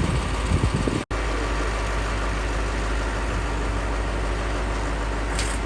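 A steady engine drone with a deep, constant low hum. It drops out for an instant about a second in.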